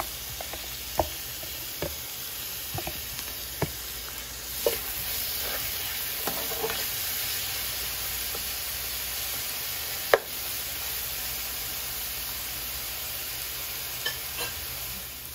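Sliced onion, herbs, hot pepper and garlic paste sizzling in oil in a frying pan while a metal spoon stirs them. The sizzle gets a little louder about four seconds in, and the spoon clicks sharply against the pan several times, hardest about ten seconds in.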